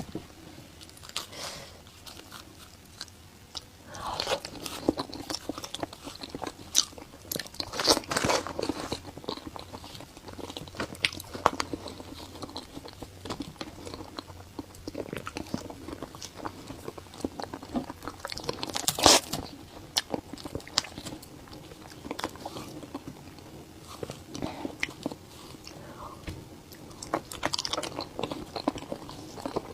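A person biting and chewing food close to the microphone: irregular wet smacks and clicks of mouth and lips, with a few louder bites.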